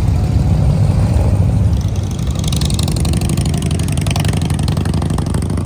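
Motorcycle engine running with a steady, rapid low pulsing rumble, easing off slightly about two seconds in.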